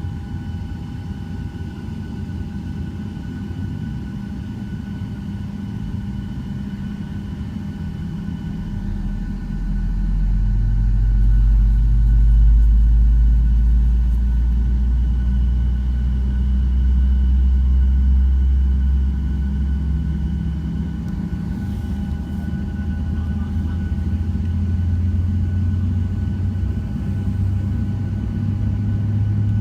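Boeing 737 jet engines heard from inside the passenger cabin: a steady high whine over a low rumble that grows louder about ten seconds in, eases a little, and swells again near the end.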